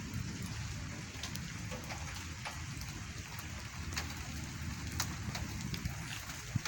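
Rain falling in a thunderstorm, with individual drops striking close by as scattered sharp ticks over a steady low rumble.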